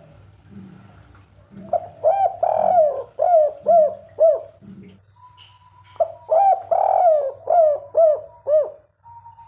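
Spotted dove (derkuku) cooing its 'kuk 3' song: two phrases of repeated coo notes, the first about a second and a half in and the second about six seconds in.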